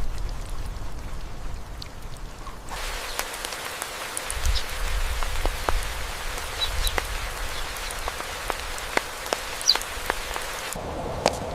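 Rain pattering on a surface: an even hiss with scattered sharp drip ticks, starting about three seconds in after a low rumble.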